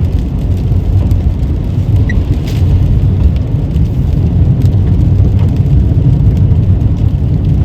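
A car driving, with a steady loud low rumble of road and wind noise.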